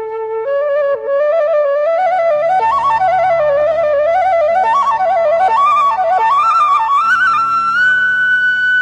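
Flute melody with fast ornamented turns, climbing and ending on a long held high note, over sustained low accompanying notes.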